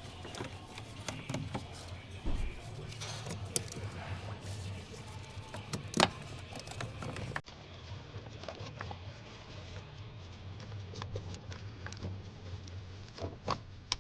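Scattered light clicks and knocks of parts and tools being handled while fitting a coolant valve, with one sharper knock about six seconds in, over a steady low hum.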